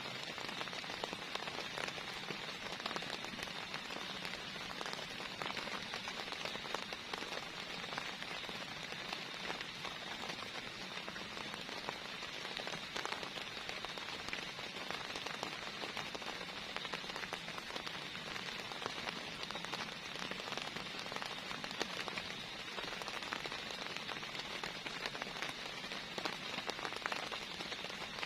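Heavy rain falling steadily, with many individual drops ticking close by.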